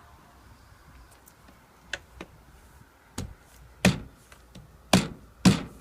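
Plastic roof-rail end covers being pressed onto the rail and snapping into place: a handful of sharp plastic clicks and knocks, getting louder, with the three loudest in the last two seconds.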